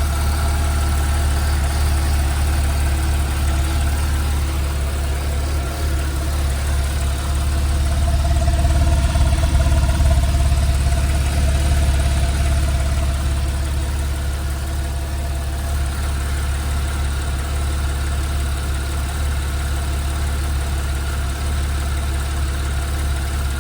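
Porsche 911 Carrera (997.2) 3.6-litre flat-six direct-injection engine idling steadily after a cold start. The sound swells slightly around nine seconds in, then settles a little lower as the idle comes down.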